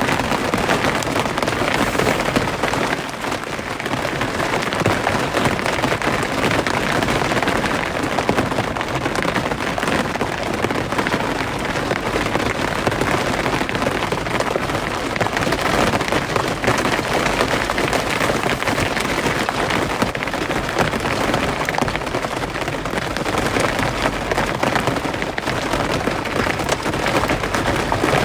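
Steady rain falling, a dense even patter of countless drops without letup.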